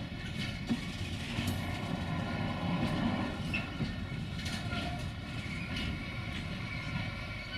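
A diesel train running on the rails: a steady engine note over continuous wheel and track rumble.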